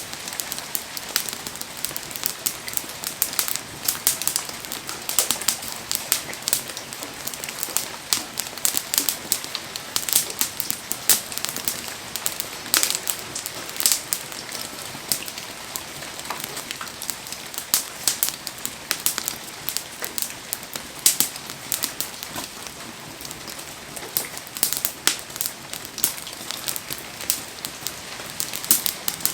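A campfire crackling and popping in heavy rain: a steady hiss of rain on surfaces, with frequent sharp crackles from the burning wood.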